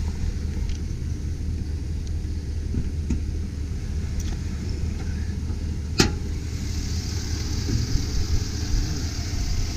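2005 Chevy Silverado 2500 HD's engine idling steadily with a low rumble. About six seconds in there is a single sharp clack, after which a higher hiss joins the idle.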